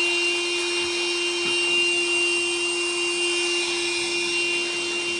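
Barber's handheld air blower running steadily, a constant motor hum under a strong rush of air, blowing loose cut hair off after a haircut.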